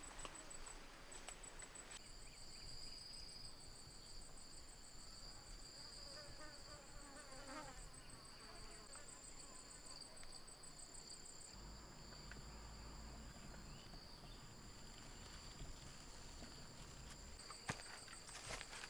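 Faint, steady chorus of forest insects: a rapidly pulsing high trill, joined about two seconds in by a second continuous high buzz a little lower in pitch.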